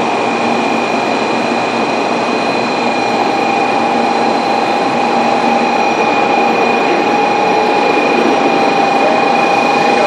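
N700-series Shinkansen train running alongside the platform, a dense rushing rail noise with a steady high whine that grows slightly louder partway through.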